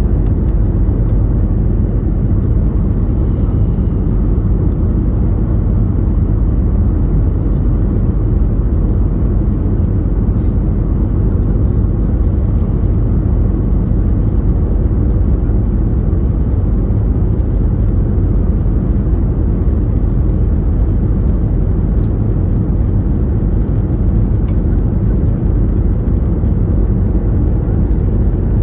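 Steady low rumble of a moving road vehicle heard from inside, unbroken throughout.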